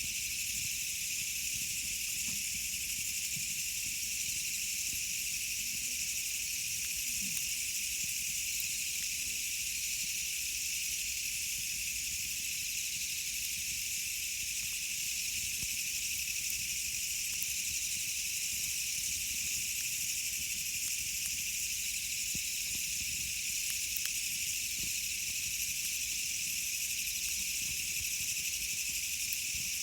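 Campfire burning: faint, scattered crackles under a steady high hiss that does not change.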